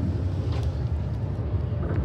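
Ferry engine rumbling steadily, with wind on the microphone.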